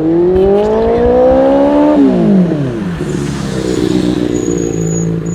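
Motorcycle engine revving: its pitch climbs steadily for about two seconds, falls off sharply, and settles back to a steady idle.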